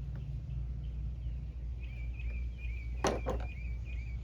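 Knife blade cutting into oak: two quick, sharp scrapes about three seconds in, over a bird chirping repeatedly and a steady low hum.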